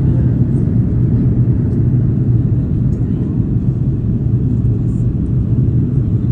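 Steady low engine drone of an aircraft, heard from inside the cabin, with no change in pitch or level.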